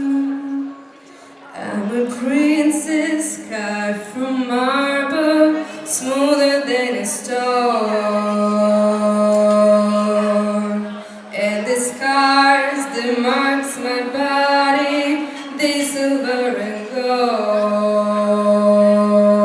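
Wordless singing: a voice slides between notes and holds long tones over a steady low drone.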